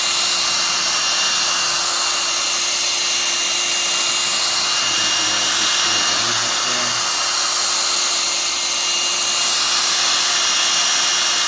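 Hot air blower running steadily with a loud whine, heating the edges of a phone display to soften the double-sided adhesive tape under the glass.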